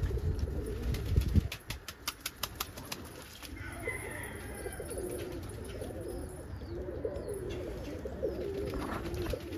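Domestic pigeons cooing, several wavering coos overlapping from a few seconds in. Before that comes a short burst of low rumbling noise and a run of sharp clicks.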